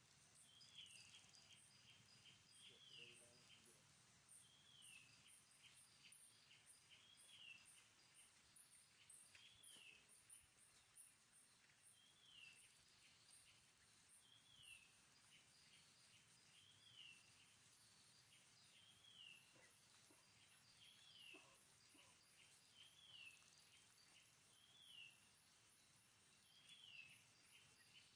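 Faint outdoor ambience: a bird repeats a short falling call about every two seconds, over a steady, fast, high insect chirping.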